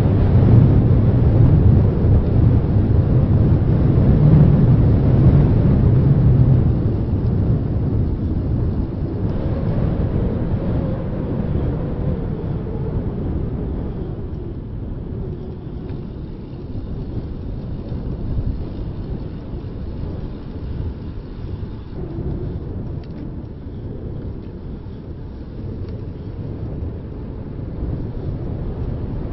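Wind noise buffeting the microphone of a handheld Zoom Q3 recorder on a moving bicycle: a low rumble, strongest for the first several seconds, then easing off.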